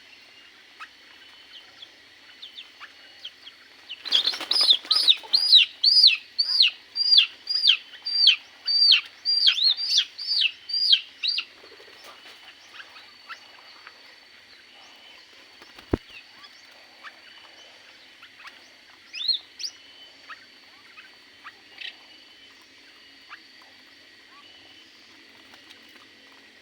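A bird calling a run of about fifteen loud, sharply down-slurred calls, roughly two a second, for about seven seconds, then a few single calls later, over faint chirping from other birds.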